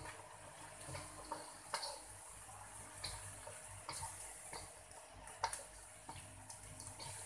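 Food frying in a wok on a gas burner, a steady faint sizzle, with scattered light clicks and knocks against the wok as it is worked; the sharpest knock comes about five and a half seconds in.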